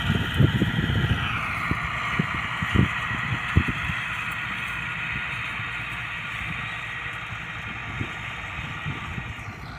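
New Holland 640 tractor's diesel engine running steadily, with irregular low knocks and clatter in the first few seconds. Its note drops a little about a second in, and it grows gradually fainter.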